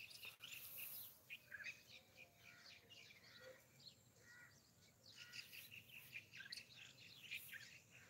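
Faint birds chirping, with short calls scattered throughout.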